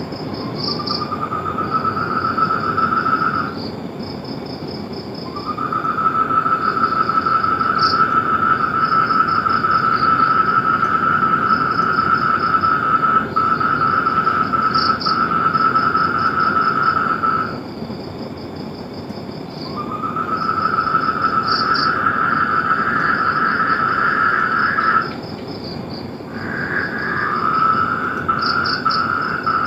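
Frogs calling in long trills of several seconds each, one after another with short gaps, over a higher, fast pulsing chorus and a steady hiss.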